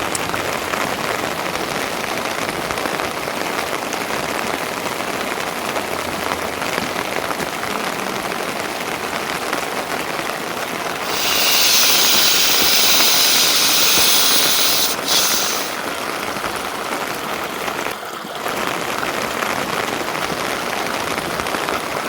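Steady rain falling, with a louder high hiss lasting about four seconds midway.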